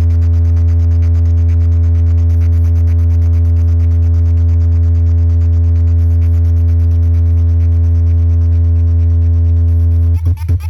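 A very loud, steady deep bass drone holding one low pitch, played through a DJ box sound system's stack of bass speaker cabinets. Near the end it breaks into choppy, stuttering pulses.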